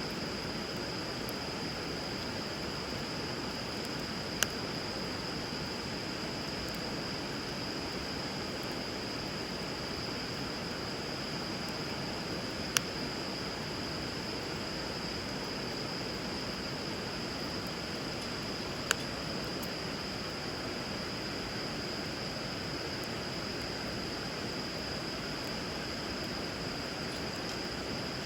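Steady rushing of flowing river water, with a steady high-pitched whine above it. A wood fire gives three single sharp pops, about 4, 13 and 19 seconds in.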